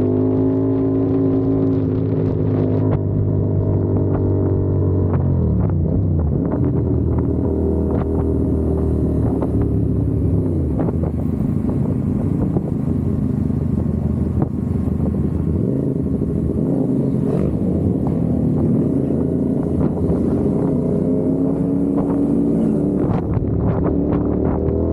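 CFMOTO 450SR's parallel-twin engine running under way as the motorcycle is ridden. Its pitch drops a few seconds in, then rises and falls with the throttle, climbing again near the end.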